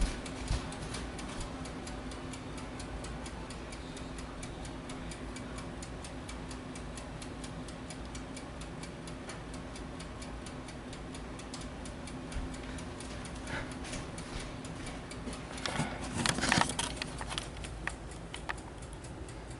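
Steady, fast, regular ticking, about four to five ticks a second, over a low steady hum. A brief louder burst of noise comes about sixteen seconds in.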